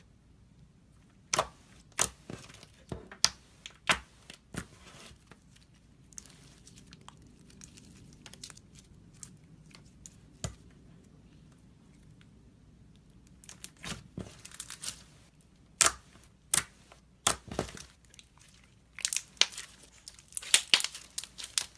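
Slime with little stones mixed in being squeezed and worked by hand: sharp crackles and pops in clusters, with quieter crackling in between.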